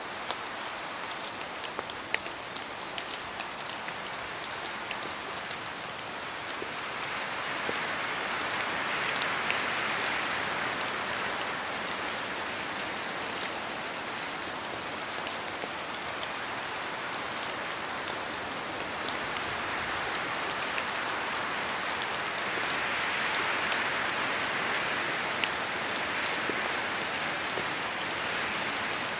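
Steady rain falling, with many sharp ticks of single drops landing close by. Twice the rain builds into a fuller hiss: about a quarter of the way in, and again later on.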